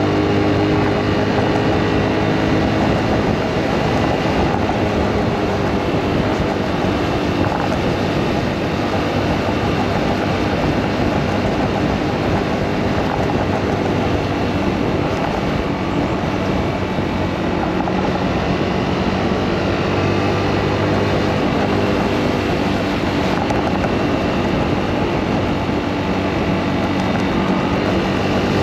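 Motorcycle engine running on the move under a steady rush of road and wind noise, its note rising and falling with speed and climbing near the end.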